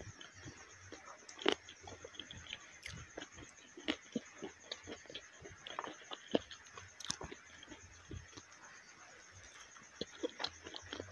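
Close-miked chewing and biting of masala-sauced chicken wings and chips, with irregular mouth smacks and clicks. The loudest comes about a second and a half in.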